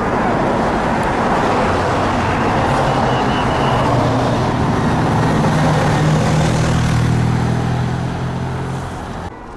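Loud, steady engine noise with a low hum that builds slightly through the middle, then cuts off suddenly near the end.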